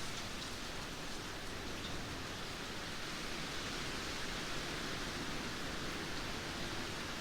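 Heavy rain pouring steadily, a dense even hiss with no thunder claps.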